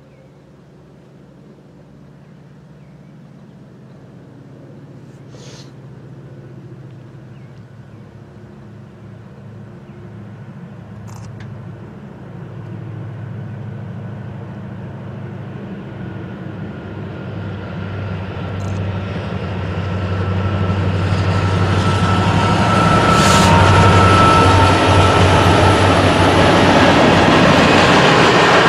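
Diesel freight locomotives approaching and passing, their engine drone growing steadily louder over about twenty seconds. Near the end comes the rumble of the freight cars rolling by.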